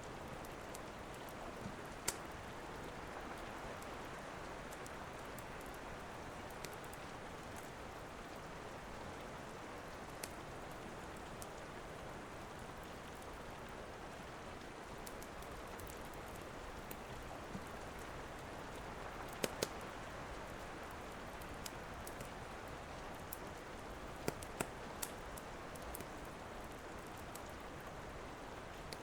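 Steady rain hissing, with the sharp pops and snaps of a crackling wood fire scattered over it; the loudest pops come about two seconds in, as a quick pair about two-thirds of the way through, and as a short cluster near the end.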